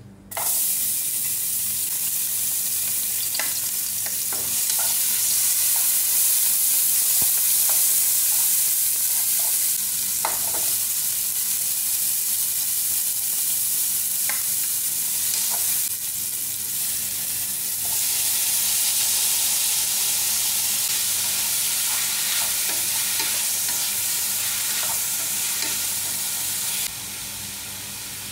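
Chopped garlic and onion sizzling in hot cooking oil in a frying pan, the sizzle starting suddenly as they go in and then running steadily, with a few light clicks from stirring. The sizzle is a little quieter near the end.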